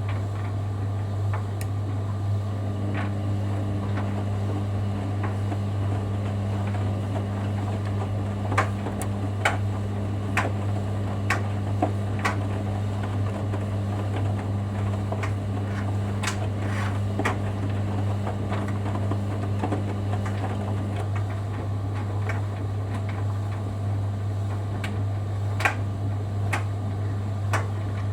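Hoover Dynamic Next front-loading washing machine in its wash phase: the drum motor runs with a steady hum from a few seconds in until about two-thirds of the way through, then stops. Scattered clicks and knocks come through the wash.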